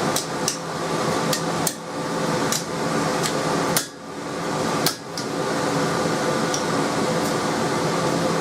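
Hand hammer striking coil-spring steel on an anvil while forging, about eight irregular blows that stop roughly five seconds in, with a couple of light taps later. A steady mechanical hum runs underneath.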